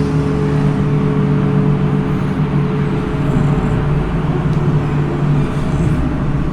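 Steady low mechanical drone with a constant hum, like a vehicle engine running with road noise.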